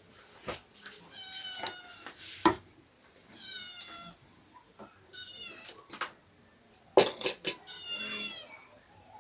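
A cat meowing four times, each call about half a second to a second long. Sharp clicks and knocks come in between, the loudest about two and a half seconds in and a quick run of three about seven seconds in.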